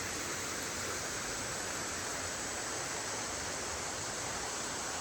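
Creek water rushing steadily over and around boulders at an old mill dam: an even, unbroken wash of noise.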